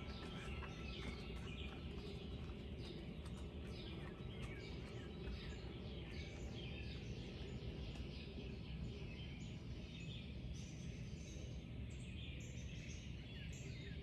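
Early-morning chorus of many songbirds, with overlapping chirps, trills and short songs throughout, over a steady low background rumble.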